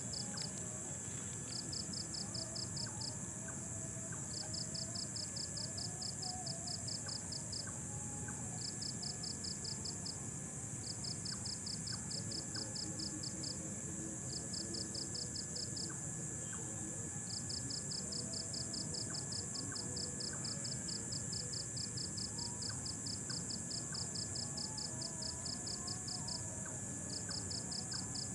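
Night insects: a steady high-pitched shrill chorus, with a cricket-like trill of rapid pulses that comes in bursts of one to three seconds and repeats after short pauses.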